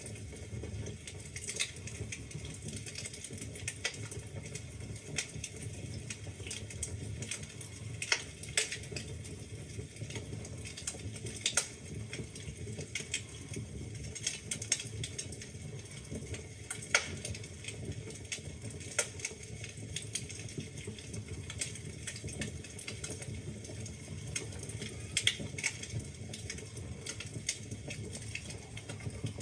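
Wood fire burning in a fireplace: a steady low rumble of the flames with irregular crackles and pops from the burning logs, a few sharper snaps standing out.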